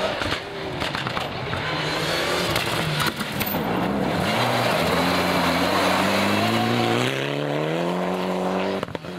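Rally car engine at full throttle, its pitch climbing steadily for several seconds and then dropping abruptly near the end, as on an upshift. Tyres hiss on the loose surface underneath.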